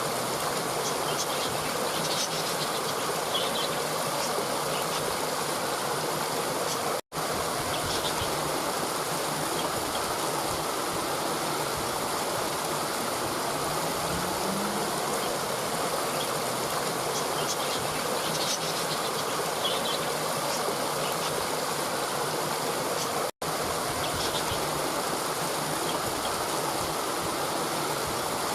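Steady rushing of a flowing stream, with faint high chirps twice. The sound cuts out completely for an instant two times.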